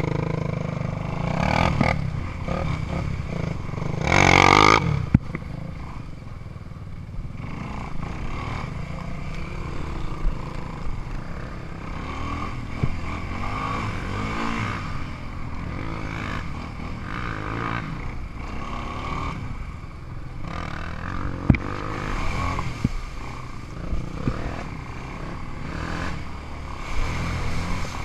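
Off-road vehicle engine running at low, uneven speed, with scattered scraping and clattering knocks and a louder rushing burst about four seconds in.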